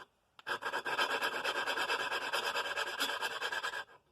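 A valve being lapped into its seat on a 5 hp Briggs & Stratton flathead: grinding compound grating between the intake valve and its seat as a suction-cup lapping stick is twisted rapidly back and forth. The gritty scraping starts about half a second in and stops shortly before the end.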